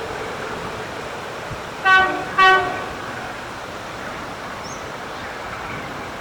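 Alco diesel locomotive 844's horn sounding two short toots in quick succession, over a steady background hiss.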